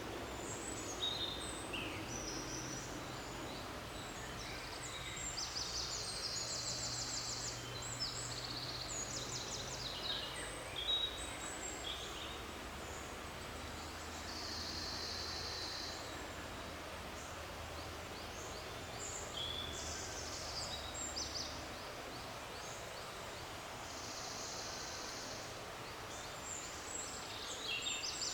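Forest ambience: several small songbirds chirp and call over a steady background hiss. A high, rapid trilling phrase about two seconds long recurs roughly every nine to ten seconds.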